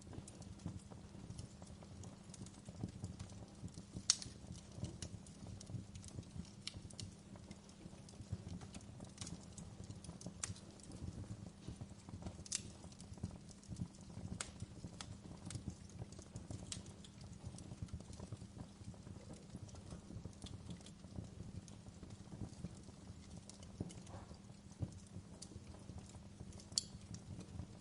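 Wood fire crackling in a fireplace: irregular sharp pops and snaps over a low steady rumble of burning, with a louder pop about four seconds in and another near the end.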